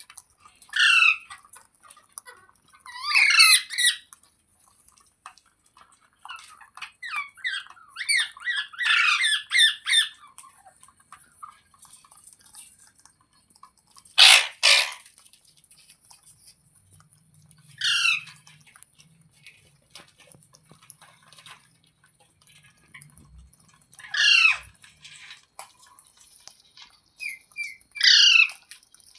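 Parrot giving loud, harsh squawks, each falling in pitch, spaced a few seconds apart, with a run of quicker chattering calls about a third of the way in and the loudest, harshest squawk near the middle.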